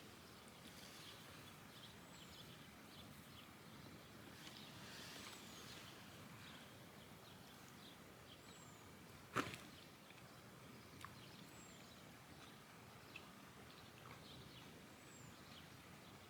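Quiet open-air ambience with faint, short, high falling bird chirps every few seconds, and a single sharp click about nine seconds in.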